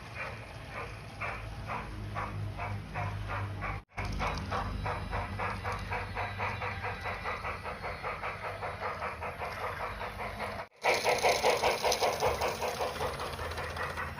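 Live-steam model locomotive chuffing in a quick, even rhythm of about four to five exhaust beats a second. It comes in three short takes split by sudden cuts, the last louder.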